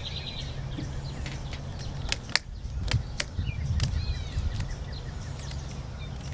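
Birds chirping, with a handful of sharp snaps between about two and four seconds in, the loudest near two and a half seconds: rubber bands being stretched and snapped around a watermelon. A steady low rumble runs underneath.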